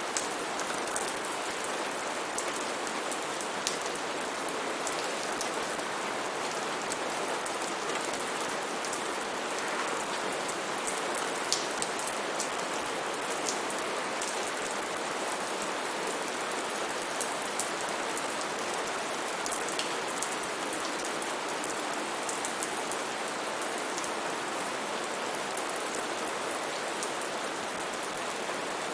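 Steady heavy rain falling, an even hiss with scattered sharper drop strikes.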